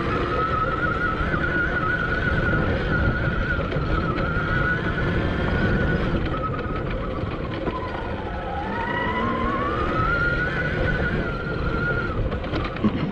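Admitjet Armor electric dirt bike's motor whining as it rides, its pitch following road speed: it sags about eight seconds in, then climbs again. Heavy wind buffeting on the microphone underneath, with a few sharp knocks near the end.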